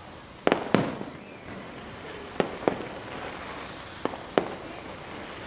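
Fireworks exploding: six sharp bangs in three close pairs, about two seconds apart.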